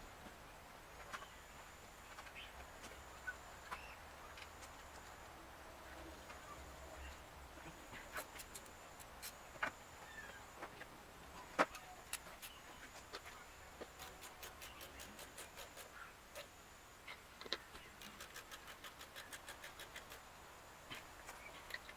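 Faint clicks and knocks of hand tools at work on an engine, with one sharper knock about halfway through. Near the end come runs of quick, evenly spaced clicks.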